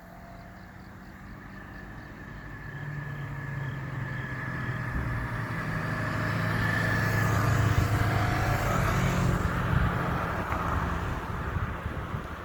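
A road vehicle, most like a car, passing close by: engine hum and tyre noise swell to their loudest about eight seconds in, then fade away.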